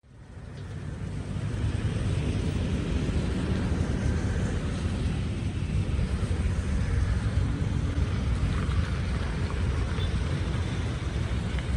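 A heavy engine running: a low, steady rumble that fades in over the first second or two and then holds level.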